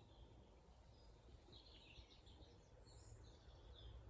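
Near silence with faint bird chirps, short high calls scattered through, over a low steady background hum.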